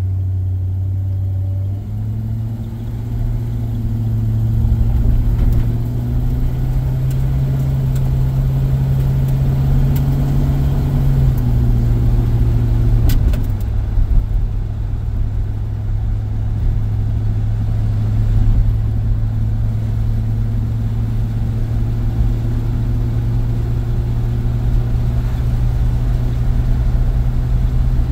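1951 Packard 200's 288 cubic-inch straight-eight engine heard from inside the cabin while driving. The engine note rises as the car accelerates, drops back a little about halfway through, then holds steady at cruising speed.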